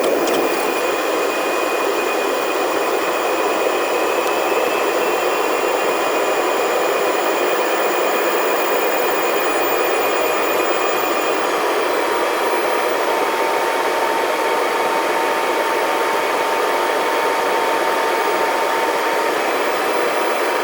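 Steady cabin noise of a private jet in flight: the hiss of engines and airflow at an even level, with faint thin whining tones over it, a higher one fading out about halfway through and a lower one coming in after the middle.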